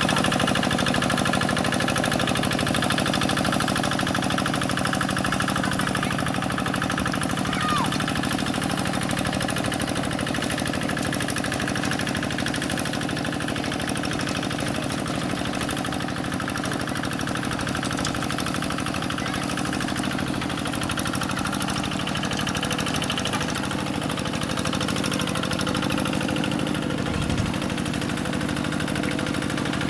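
Quick G1000 two-wheel hand tractor's single-cylinder diesel engine running steadily while working in mud.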